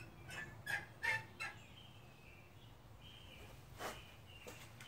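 Faint birdsong: a quick run of four short chirps in the first second and a half, then thin, high whistled notes.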